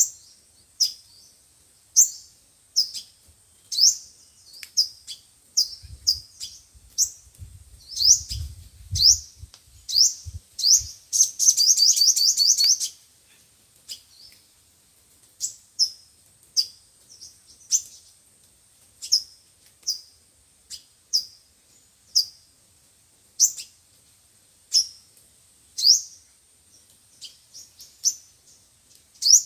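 Sunbird calls, a recording used as a speaker lure for trapping sunbirds: sharp, high, descending chirps repeated about once a second, broken by a rapid trill about eleven seconds in. A low rumble sits under the chirps for a few seconds before the trill.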